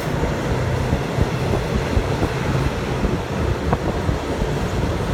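Train running along the track, heard from aboard: a steady low rumble with wind noise on the microphone and a few short knocks.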